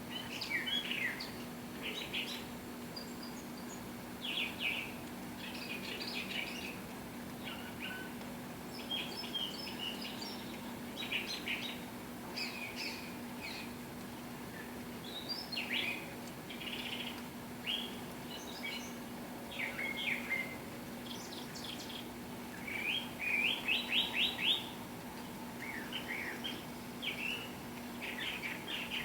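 Several wild birds chirping and singing in short phrases and trills, with a fast run of repeated notes, the loudest, about four-fifths of the way through. A steady low hum runs underneath.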